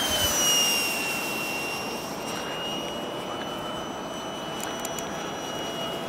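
Model F-22 jet flying, its motor giving a high whine that drops in pitch during the first second and then holds steady, over a rushing hiss.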